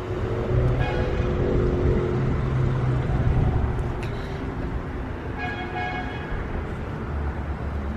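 A car engine running steadily, fading away after about three and a half seconds, over a constant background hum.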